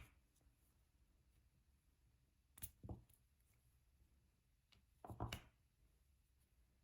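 Faint, short clicks and taps of a diamond painting drill pen placing resin drills on the canvas: a pair about two and a half seconds in, then a louder quick cluster a little after five seconds.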